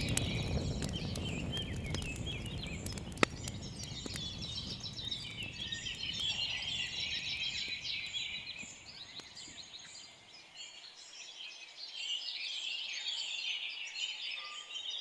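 Many birds chirping and chattering at once in a morning chorus, over a low rumble that fades out about two-thirds of the way through; one sharp click about three seconds in.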